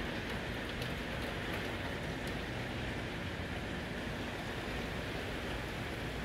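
Heavy monsoon rain falling, a steady even hiss, with a few sharp ticks of drops striking close by.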